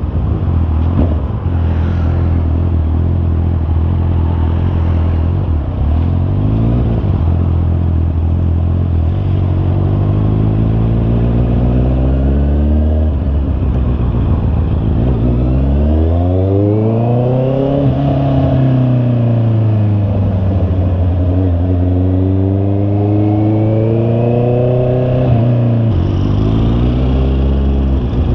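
Honda CB650R's inline-four engine running under way. It holds a steady pitch at first, then revs up and falls back several times, with sudden drops in pitch where gears change.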